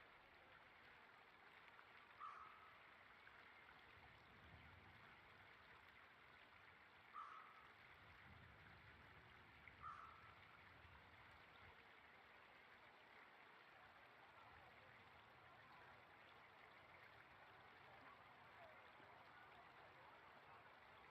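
A bird calling three times, a short call every few seconds, over a faint steady hiss.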